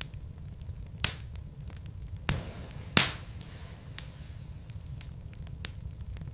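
Logs burning in a fireplace: scattered sharp crackles and pops over a low, steady rumble, the loudest pop about three seconds in.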